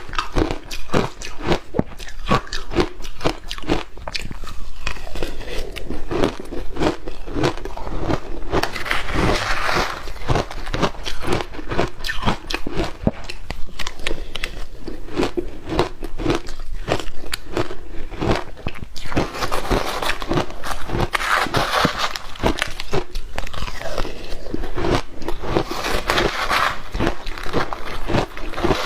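Ice dusted with matcha powder being bitten and chewed close to the microphone: a dense, continuous run of crisp crunches with hardly a pause.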